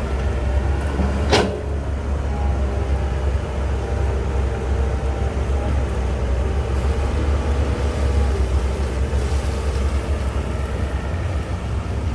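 Heavy diesel construction machinery running steadily with a low rumble, and a single sharp metal clank about a second and a half in.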